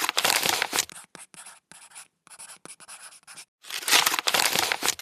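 Scratchy rustling noise in irregular bursts, like paper being handled. It is loud at the start, choppy and quieter through the middle, and loud again near the end.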